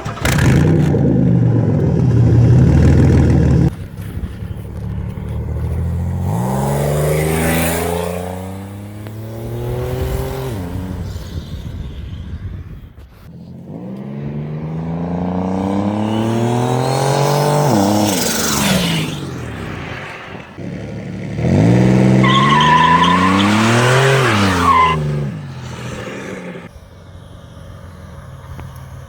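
Turbocharged V6 of a 1996 Pontiac Transport minivan under hard acceleration, three times over, its note climbing and then falling away. It opens with a loud, noisy stretch of a few seconds.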